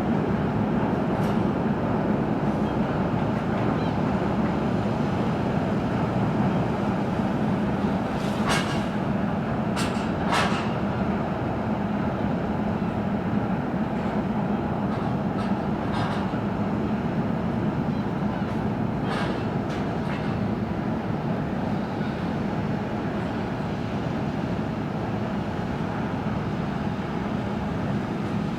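Steady low rumble and hum of a large car ferry's engines heard through a terminal window, with a few short clicks in the middle stretch.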